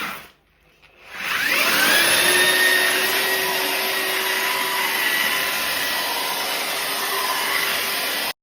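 An electric motor spins up about a second in, its pitch rising, then runs steadily with a rushing whine, and cuts off suddenly near the end.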